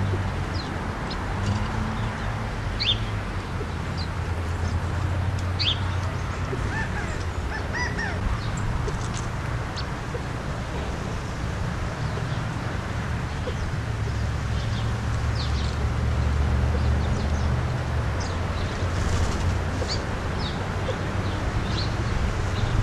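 Birds calling while feeding: scattered short, high chips, with a few soft rising calls about seven to eight seconds in. A steady low hum runs under them.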